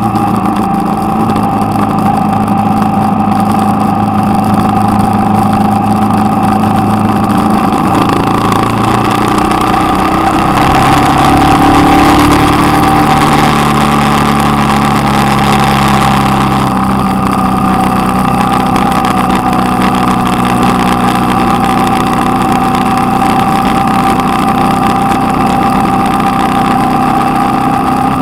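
Motorcycle engine running while riding, heard from a camera on the bike itself, over a steady rush of noise. The engine note steps in pitch about ten seconds in and again a few seconds later.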